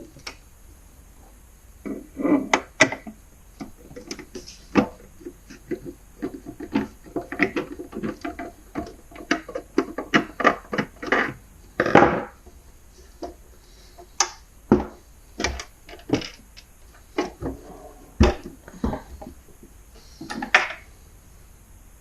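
Hand tools and parts of a garage door opener's housing clicking, tapping and clattering irregularly as the opener is taken apart, with a louder knock about midway and a sharp low knock later.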